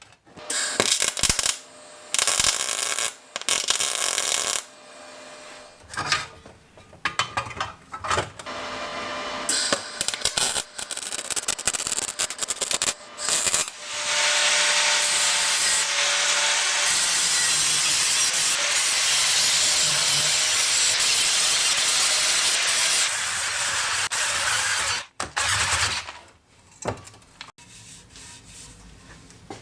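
Workshop tool noise: a run of short, irregular scraping and rubbing sounds, then a steady noisy sound lasting about eleven seconds that stops abruptly, followed by a few more short scrapes.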